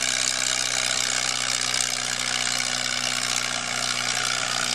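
Antique tractor engine running steadily at constant speed, with a wash of noise over it.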